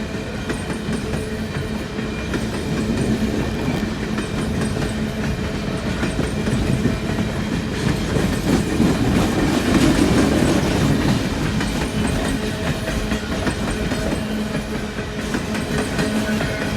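Empty coal train cars rolling past, their steel wheels clacking over rail joints in a steady, dense rattle, swelling a little louder about halfway through.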